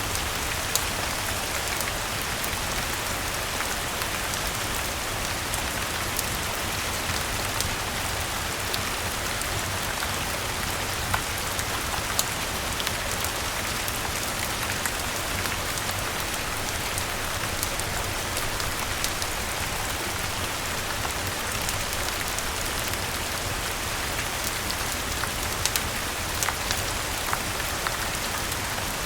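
Steady rain falling, an even dense hiss with scattered sharp clicks and pops throughout.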